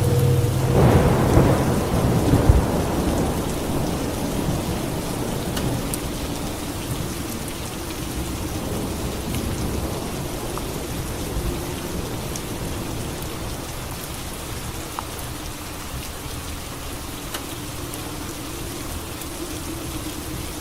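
Steady heavy rain with a thunderclap about a second in, loudest at around two and a half seconds, then the rumble dies away under the rain.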